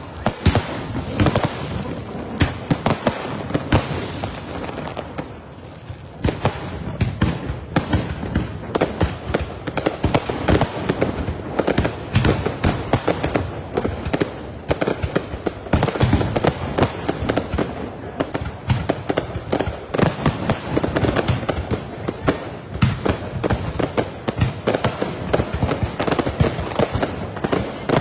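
Fireworks display: a dense, continuous barrage of aerial shell bangs and crackling, many a second, with a slightly quieter moment about five seconds in.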